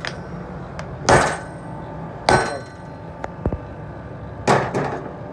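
Hammer blows on metal: three heavy strikes about a second or two apart, each leaving a brief metallic ring, with a few lighter taps between them.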